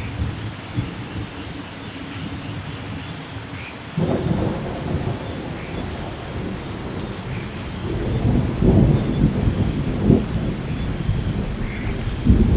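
Steady rain with thunder rolling in: a deep rumble starts suddenly about four seconds in and swells louder in the second half.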